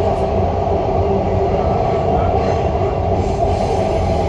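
Dubai Metro train running between stations, heard inside the carriage: a steady rumble with a steady whine over it.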